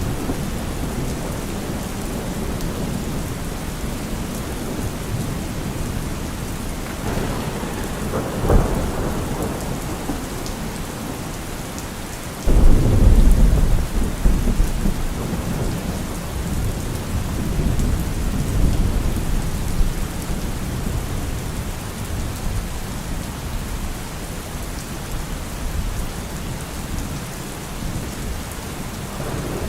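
Steady rain falling, with thunder: a short crack about a third of the way in, then a heavy low rumble that starts suddenly near the middle and rolls on for several seconds before fading back under the rain.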